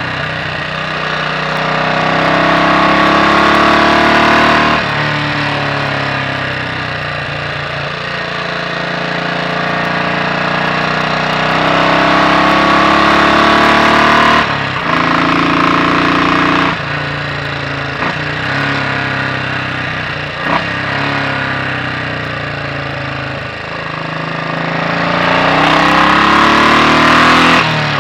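Royal Enfield Bullet 500's single-cylinder engine, its inlet cam retarded by one tooth, pulling hard on the road. Its note rises steadily under acceleration and drops sharply at each gear change, several times over.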